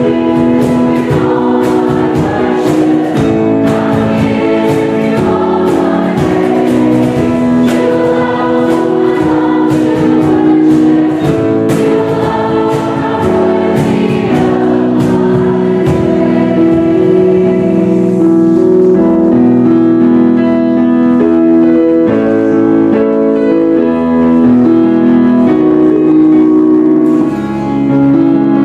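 A choir singing. The first half has frequent sharp accents, and the second half settles into long held chords.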